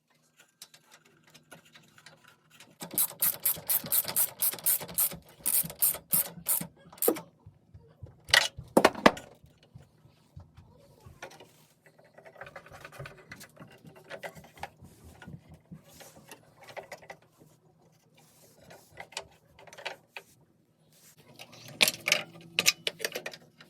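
Ratchet wrench clicking in quick, even strokes, a fast run of clicks a few seconds in and another near the end, with a few separate metal knocks in between.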